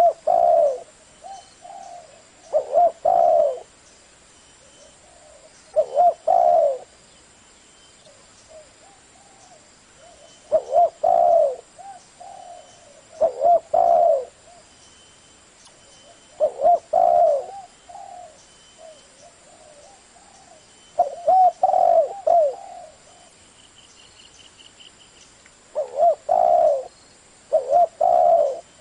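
Spotted dove cooing in the deep 'thổ' voice: loud phrases of two or three low coos every few seconds, with fainter coos between them.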